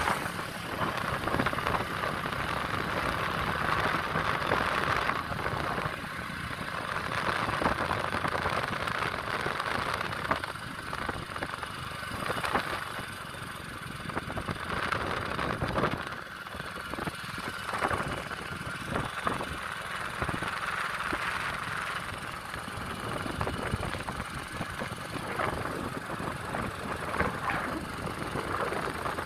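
A vehicle on the move: steady engine and road noise that rises and falls.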